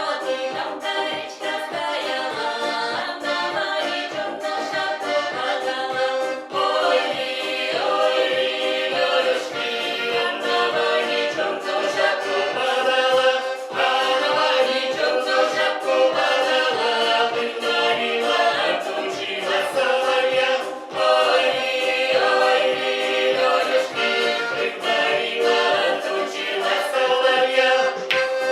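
Folk vocal ensemble singing a song in chorus over instrumental accompaniment with a steady beat.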